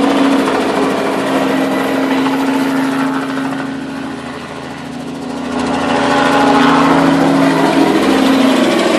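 Crop-dusting helicopter's rotor and engine running, a steady pulsing throb over a low hum. It fades somewhat about four to five seconds in, then grows louder again.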